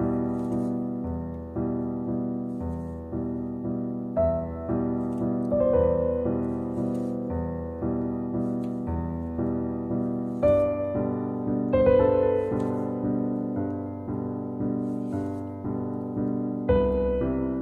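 Background piano music: soft sustained chords with gentle notes struck about twice a second.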